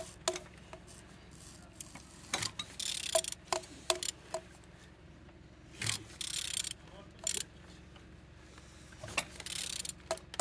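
A BMW N43B20A 2.0-litre four-cylinder petrol engine being turned over by hand with a wrench. Scattered clicks and scrapes come from the tool, with a short rasping burst about every three seconds. The engine turns freely.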